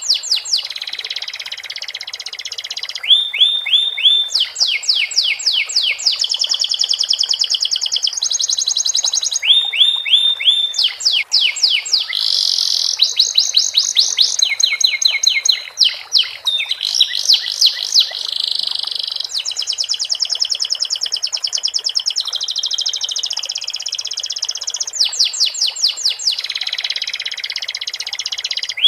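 Domestic canary singing a long, unbroken song whose phrases are filled with learned sikatan londo imitations. The song runs as a string of fast trills, each a rapid run of repeated high sweeping notes that switches to a new phrase every second or two.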